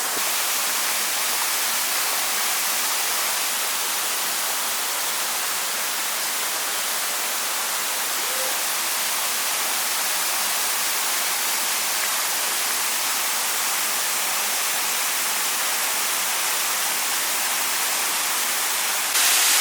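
Waterfall rushing: a steady hiss of falling water, which gets louder just before the end.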